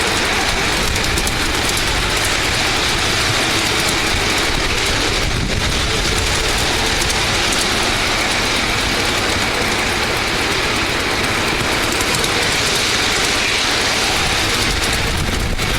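Miniature railway train running steadily, a constant mix of wheel and running noise with a faint high steady tone over it.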